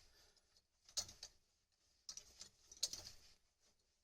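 Near silence broken by a few faint, light clicks and taps: one about a second in and a small cluster near three seconds.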